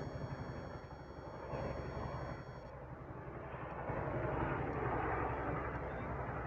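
Chinook tandem-rotor helicopter flying overhead: a deep, rhythmic rotor beat over engine rumble, growing louder about four seconds in.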